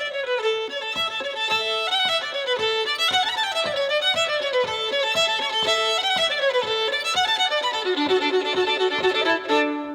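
A violin played solo: a quick melody of short, separate notes that climbs and falls back.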